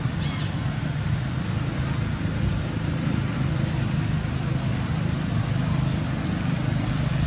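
Steady low outdoor rumble, with a brief high-pitched squeak a fraction of a second in.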